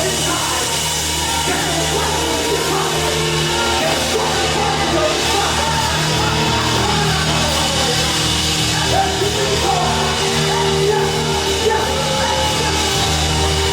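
Live worship music: a band holding long sustained chords, with voices singing a wavering melody over them.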